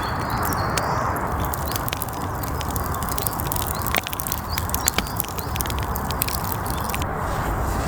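Wood campfire crackling, with many small sharp pops over a steady hiss.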